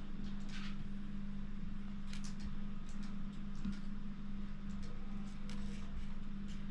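A steady low hum with faint, scattered clicks and rustles.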